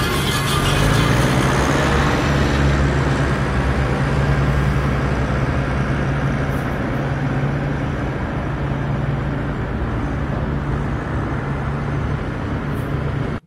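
A vehicle engine running steadily with a low, even hum, cutting off suddenly at the end.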